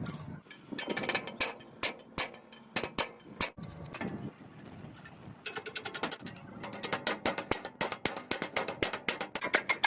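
Sharp mechanical clicks from small parts being worked by hand, a few a second at first, then coming fast and close together from about five and a half seconds in.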